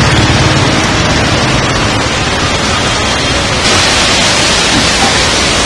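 Heavy rain with traffic on a wet road: a loud, steady hiss that turns brighter about three and a half seconds in.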